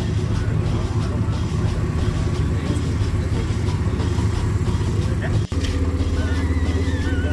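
Truck engine idling with a steady low rumble. About five and a half seconds in the sound cuts out for an instant, and music with a wavering high melody over a steady low drone takes over.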